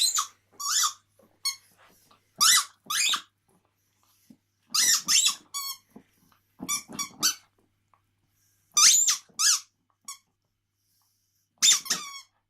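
Rubber squeaky dog toy squeaking in short, high bursts as a dog chews it, several squeaks in a row then pauses, over and over.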